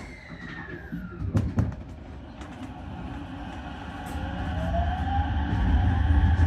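Ichibata Electric Railway 7000-series electric train pulling away and gathering speed. The motor whine rises in pitch as it accelerates, and the rumble of the wheels grows steadily louder, with a few sharp knocks about a second and a half in.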